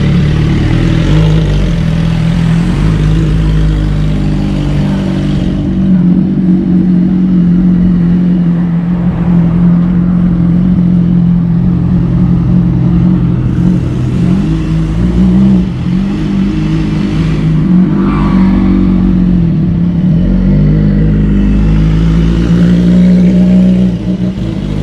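BMW S1000RR's inline-four engine running steadily, its revs shifting a few times.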